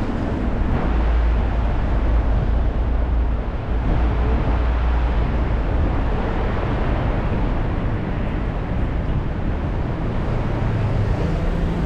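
Steady city traffic on a rain-wet road: an even hiss of tyres and vehicles with a deep low rumble, heavier in the first half.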